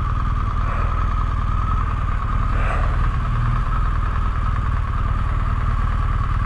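Motorcycle engine running steadily at low revs while the bike rolls slowly in to park.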